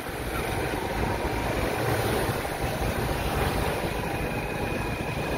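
Steady outdoor street noise with vehicle engines running.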